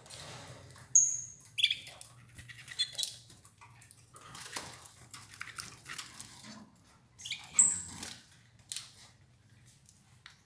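Domestic canaries in their cage: two short high chirps, one about a second in and one later, with a few brief calls and scattered light clicks and rustles as the birds feed on escarole. A low steady hum runs underneath.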